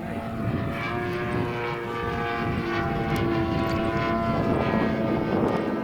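Radio-controlled model airplane flying, its motor and propeller giving a steady buzzing drone that wavers slightly in pitch and grows a little louder.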